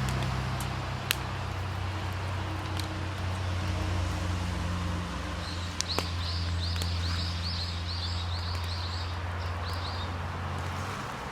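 Outdoor ambience: a steady low hum, like a distant engine, with a few sharp clicks. Midway a small bird sings a quick run of about ten repeated high notes lasting some four seconds.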